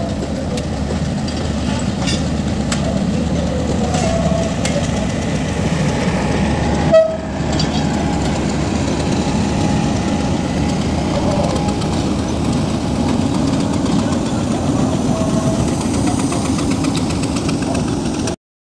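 Express passenger train moving on the rails with a steady rumble and clatter. There is one sharp knock about seven seconds in, and the sound cuts off abruptly near the end.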